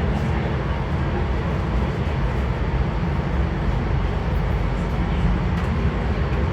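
Steady low rumble and rushing noise of a Metro D Line subway train running underground, heard from inside the car.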